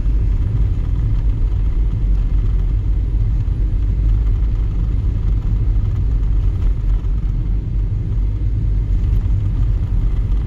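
Steady low rumble of road and engine noise inside a Volkswagen Jetta's cabin while driving on a snowy road.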